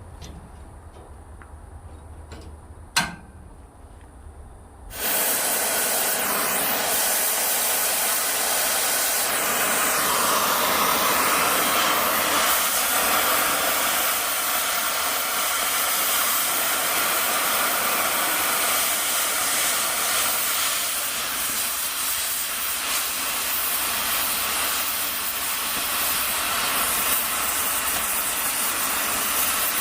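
A sharp click about three seconds in, then a cutting torch starts cutting steel plate: a steady, loud hiss that begins suddenly about five seconds in and runs on evenly.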